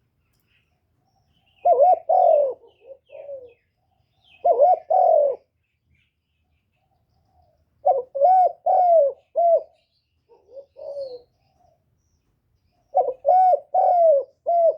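Spotted dove cooing: four phrases, each a run of several linked coos that bend up and down in pitch, with short pauses between phrases.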